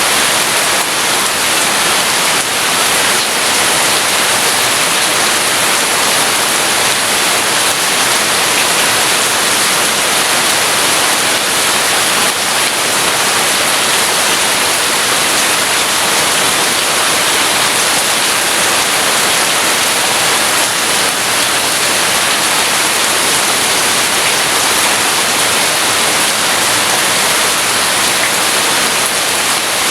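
Heavy rain falling steadily, a dense, even hiss with no thunder in it.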